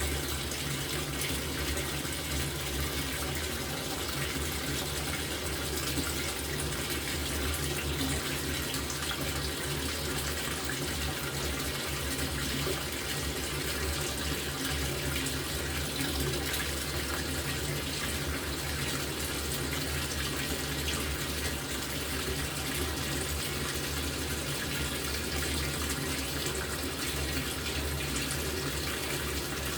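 LG top-loading washing machine with water pouring steadily into its tub, as when it fills for a rinse, over a steady low hum.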